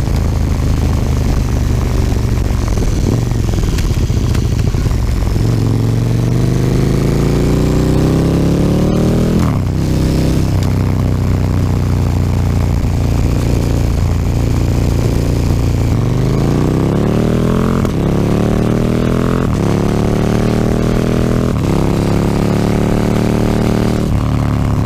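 KTM 1290 Super Duke R's V-twin engine through an Akrapovic slip-on exhaust, accelerating through the gears. The engine note climbs and drops back at each upshift, in two runs of acceleration, with a steadier cruise between them.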